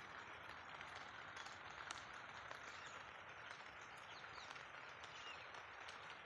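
Faint outdoor ambience: a steady hiss with scattered short clicks and a few small chirps.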